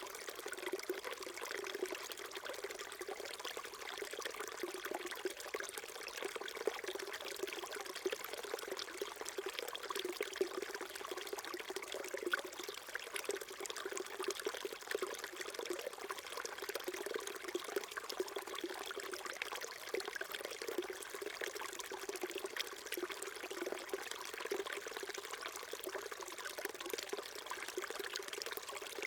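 Small stream trickling and burbling over stones, a steady babble with no let-up.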